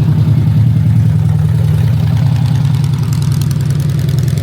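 A vehicle engine idling steadily with a deep, even hum, with a light rapid ticking coming in about three seconds in.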